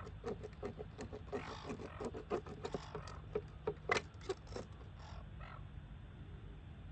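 Seagulls calling in a rapid series of short, harsh cries.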